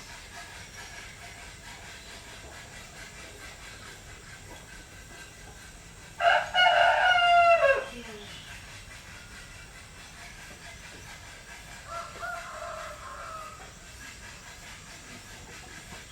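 Rooster crowing once, loud and drawn out, about six seconds in, the call dropping in pitch at its end. A second, fainter crow follows about twelve seconds in, over a steady background hiss.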